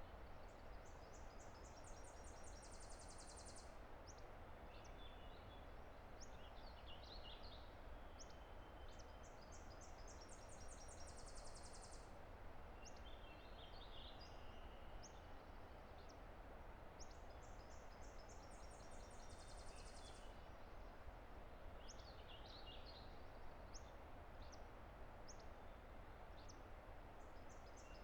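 Faint, steady rush of a distant river with a songbird repeating the same short song about every eight seconds: a few thin notes running into a fast, high trill. Scattered single chirps from other birds fall between the songs.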